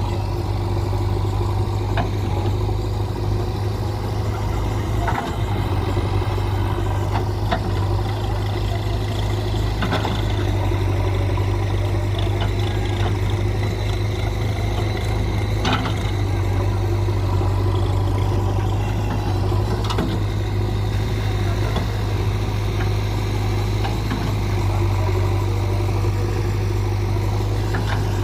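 Heavy diesel engine of earthmoving machinery running steadily at constant speed, with a few scattered sharp clanks.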